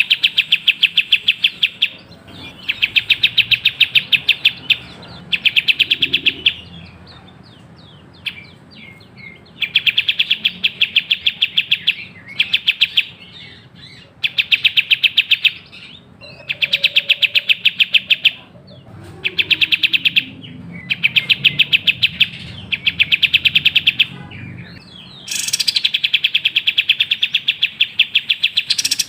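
Kapas tembak songbird singing: repeated bursts, each a second or two long, of fast, rapid-fire sharp chirping notes, broken by short pauses and a few thin whistled notes.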